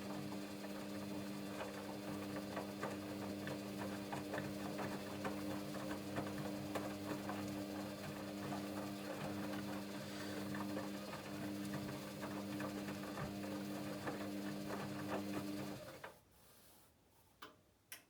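Hoover Dynamic Next washing machine running on its Rapid 14' programme: a steady motor hum with rapid clicking and rattling, cutting off about 16 seconds in, followed by a couple of sharp clicks.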